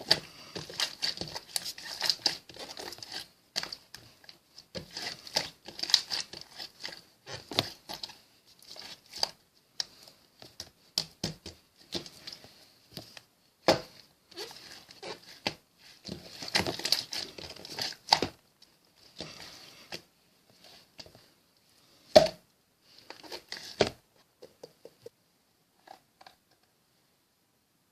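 Slime being squished, stretched and pressed by hand, giving dense irregular crackling and sticky popping clicks, with a few sharper loud pops in the second half. The sound thins out and stops a few seconds before the end.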